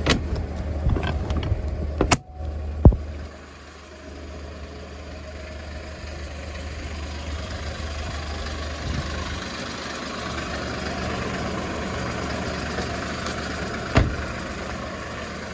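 Hyundai Porter II diesel truck engine idling, with a few clicks and a thump in the first three seconds. After a break, a steady rushing noise builds slowly over the idle, with one knock near the end.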